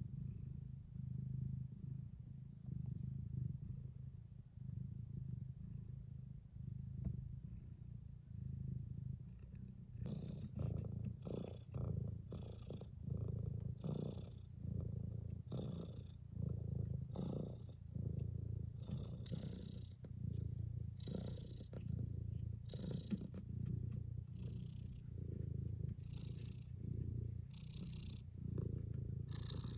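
Domestic cat purring close up, a steady low rumble that pulses with its breathing. About a third of the way in, a short rustling sound joins and repeats roughly once a second.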